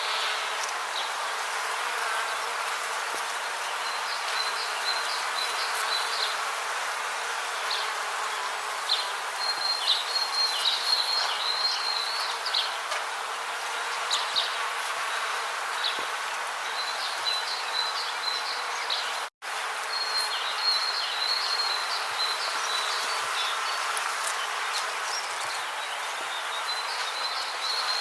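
Rainforest ambience: a steady hiss with bursts of high chirping trills that come and go every few seconds. The sound cuts out completely for an instant about two-thirds of the way through.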